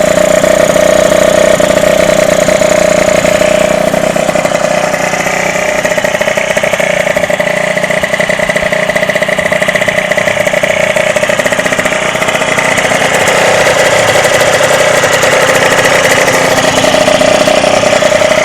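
Derbi DRD two-stroke motorcycle engine running on a steady throttle, freshly rebuilt after a complete restoration, its note shifting slightly upward about two-thirds of the way through.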